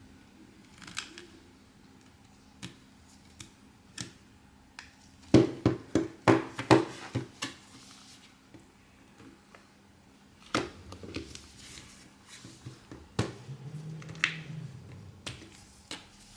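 Small metal repair tools clicking and tapping against a smartphone's frame and glass, in scattered sharp ticks with a quick flurry of them in the middle. A short low hum comes in about three-quarters of the way through.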